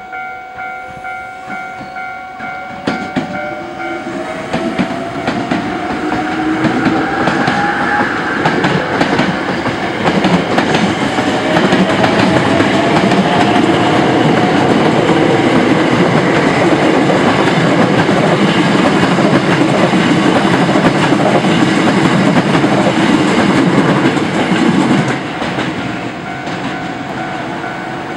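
A Hankyu Railway electric train passing close by, wheels clattering over the rail joints, with a rising motor whine as it builds up; loudest through the middle, easing off near the end. It opens with a steady ringing tone pulsing about twice a second that stops about four seconds in.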